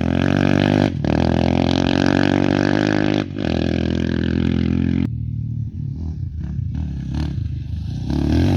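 Off-road race motorcycle engine revving hard, its pitch climbing with short breaks at gear shifts about one and three seconds in. About five seconds in the loud engine cuts off abruptly, leaving a lower, rougher engine sound with clatter, and it comes back loud near the end.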